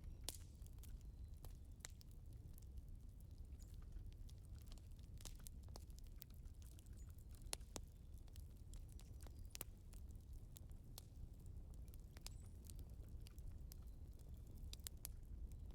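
Faint crackling of a wood fire: irregular sharp pops and snaps, a few each second, over a low steady rumble.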